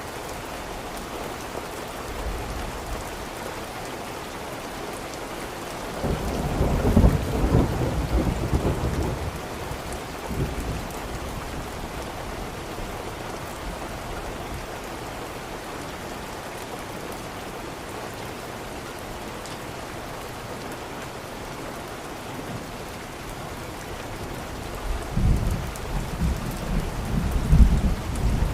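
Steady rain with two rolls of thunder: one rumbling up about six seconds in and fading over a few seconds, another building near the end.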